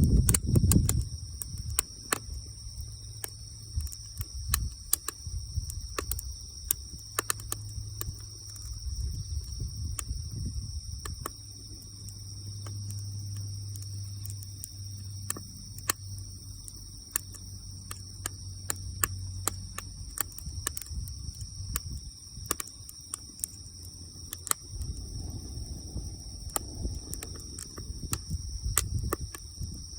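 Wood fire crackling, with sharp irregular pops scattered throughout, over a steady high-pitched drone.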